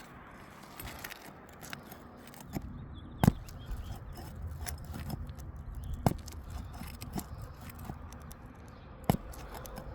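Nails being pried out of roof shingles with a hand tool: sharp clicks and knocks, the loudest about three, six and nine seconds in, over scraping and rustling.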